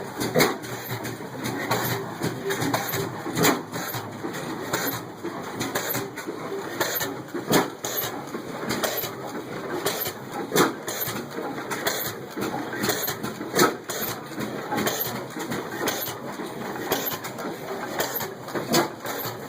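Old stationary oilfield engines running together: a steady clatter of strokes and clicks, broken every few seconds by a louder sharp knock at uneven intervals.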